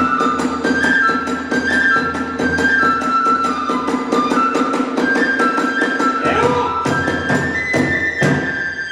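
Kagura hayashi accompaniment: a transverse bamboo flute playing a high melody over a fast, even beat of drum and hand cymbals, which breaks into a few heavy separate strikes near the end.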